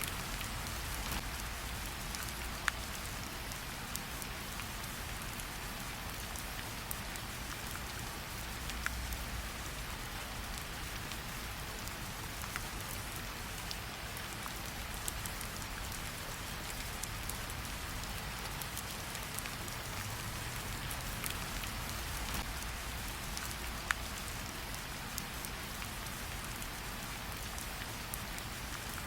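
Steady rain falling, an even hiss, with a low rumble underneath and a few sharp pops now and then, like the crackle of a campfire.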